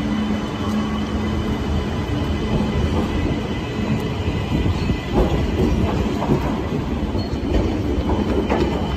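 CP class 3400 electric multiple unit pulling out of the station, its motors and wheels giving a steady rumble. From about five seconds in the wheels clatter and rattle on the rails more and more unevenly as it picks up speed.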